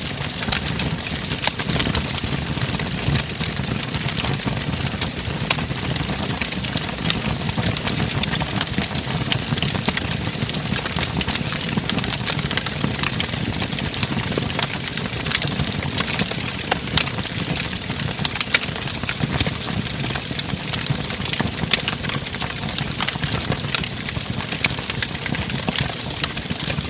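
Wood fire burning in a fireplace: a steady low rumble of flames with frequent small, irregular crackles and pops throughout.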